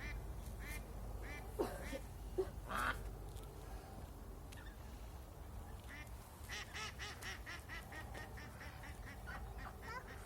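Ducks quacking on the water: scattered calls at first, then a fast run of quacks about six seconds in.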